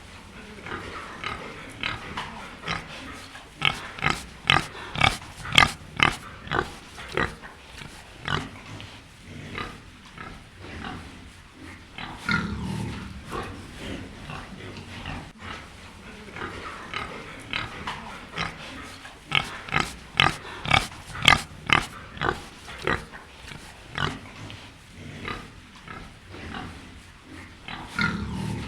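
An animal calling in quick runs of short, sharp calls, with a deeper low call about twelve seconds in and again near the end.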